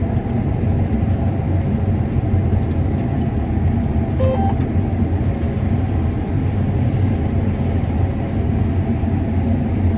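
Combine harvester running steadily while harvesting corn, heard from inside the cab: a constant engine and machinery drone. A short high tone sounds once, about four seconds in.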